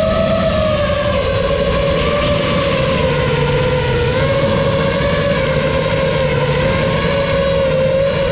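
Four EMAX ECO II 2806 1500 kV brushless motors and propellers of a 7-inch FPV quadcopter whining at a fairly steady throttle, heard from on board, the pitch wavering slightly up and down, over a steady rushing noise.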